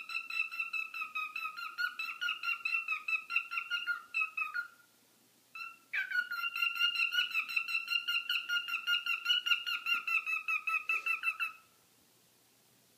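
Cockatiel calling in a long run of rapid, evenly pitched chirps, about five a second. It breaks off for about a second around five seconds in, then starts again and stops shortly before the end.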